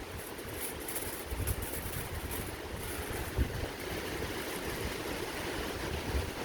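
Wind rushing and buffeting the microphone in irregular low gusts, with a few faint crackles in the first half.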